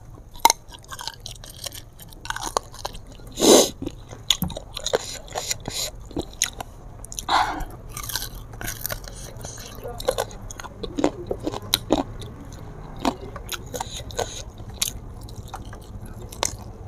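Close-miked biting and chewing of sauced chicken feet: many small wet mouth clicks and lip smacks, with a couple of louder smacks about three and a half and seven seconds in.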